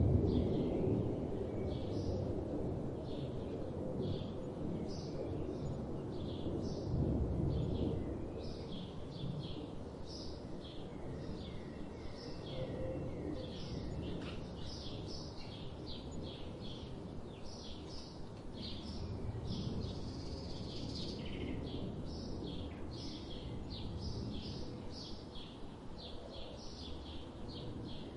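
Small birds chirping in quick short notes, several a second, over a steady low background rumble of environmental noise.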